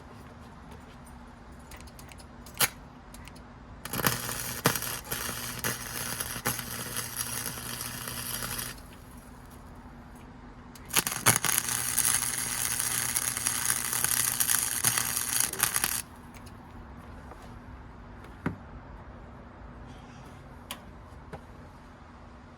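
Electric arc welding on a steel exhaust pipe: two crackling welding runs of about four and five seconds with a low buzz under them, and a few single sharp clicks in between.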